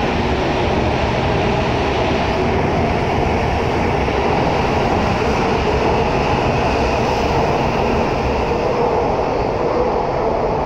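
N700 series shinkansen train pulling out of the station and running close past: a steady, loud rush of wheel and running noise. The last car clears near the end.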